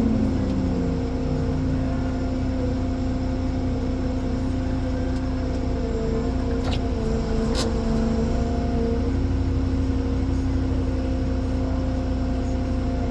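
Ponsse Elephant forwarder running steadily, with a whine whose pitch drops at the start and shifts slightly about two-thirds of the way in. A few sharp clicks come in the middle and near the end.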